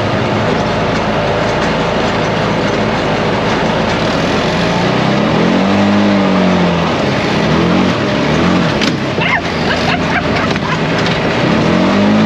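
ATV engine running under load on a trail, its pitch rising and falling as the throttle is opened and eased, once around the middle and again near the end, over heavy rushing noise. A few sharp knocks a little past the middle.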